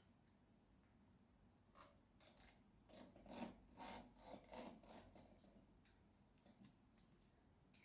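Faint handling noise: a run of about a dozen short scraping strokes over some three seconds, then a few light ticks.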